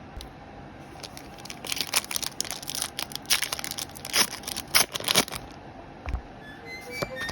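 Packaging of a Pokémon TCG booster bundle being torn open: a quick run of ripping and crinkling of thin plastic and foil wrap lasting a few seconds, then a single soft thump. Music starts just before the end.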